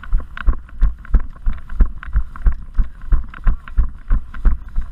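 Running footsteps, about three steps a second, each a dull thud with a light clatter.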